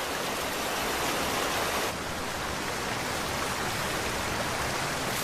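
Rushing river water, a steady hiss as the river runs high.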